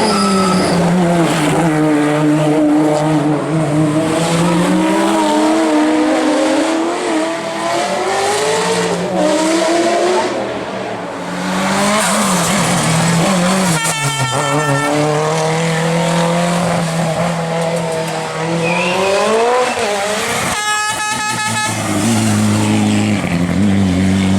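Race car engine at high revs on a hillclimb, its pitch rising under acceleration and dropping at each gear change or braking point, over and over as the car climbs through the bends.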